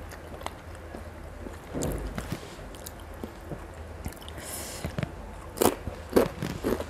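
A person chewing a mouthful of fried noodles, with scattered wet mouth clicks and smacks. A cluster of louder smacks comes near the end.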